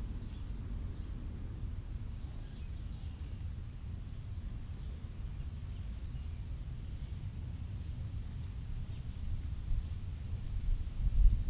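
A small bird chirping over and over in the background, about two to three short high chirps a second, over a steady low rumble that swells into louder bumps near the end.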